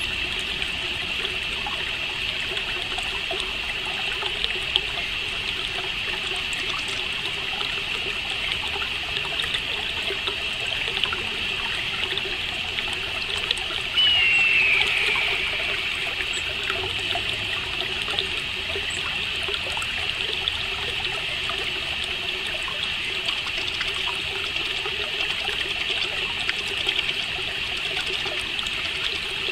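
Nature ambience: a steady chorus of chirping crickets over a trickling-water hiss. About halfway through, a single bird call falls in pitch over about a second.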